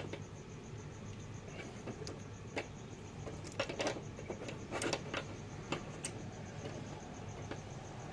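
A few scattered, irregular clicks and knocks from a wrench turning the bolt of a two-jaw gear puller. The part being pulled is still stuck fast on the engine.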